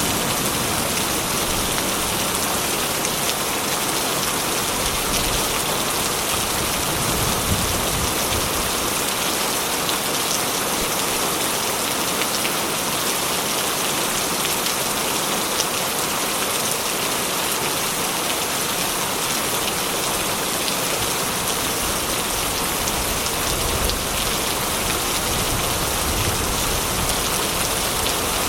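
Steady heavy rain drumming on a corrugated metal roof.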